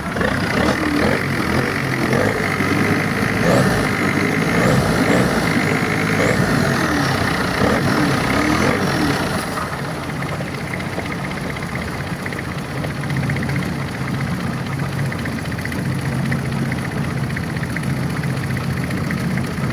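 Boat engine running steadily under way. About halfway through the sound turns slightly quieter and steadier, a low hum.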